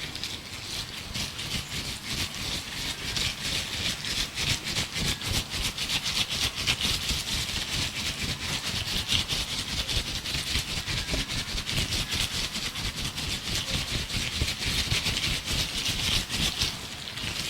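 Gloved hands rubbing and crinkling close to the microphone: a continuous, rapid crackling rustle.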